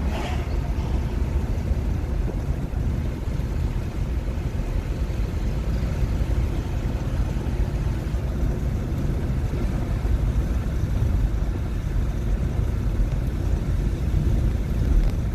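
Steady road and tyre rumble of a 2021 Nissan Leaf electric car driving along, with no engine note beneath it.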